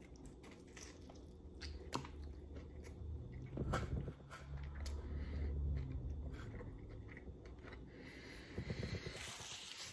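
A person biting into and chewing a mouthful of pizza, with scattered short crunches and wet mouth clicks.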